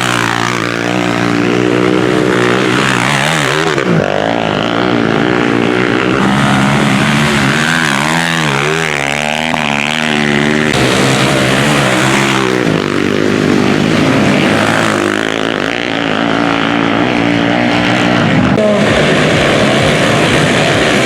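Several Honda CG single-cylinder four-stroke motorcycles racing, their engines revving and sliding in pitch as they pass, with the sound shifting several times.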